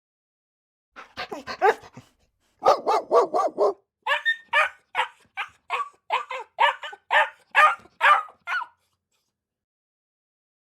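A dog barking in runs of short, sharp barks. A quick burst comes about a second in and another just before three seconds. Then a steady series of barks, about two to three a second, stops near nine seconds.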